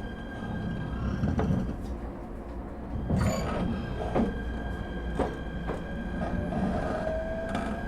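Inside an ET127-series electric train with Toyo IGBT-VVVF inverter drive, running under way: a steady rumble with the even whine of the inverter and traction motors. Sharp clicks of the wheels crossing rail joints come several times, and a faint whine starts rising about six seconds in as the train picks up speed.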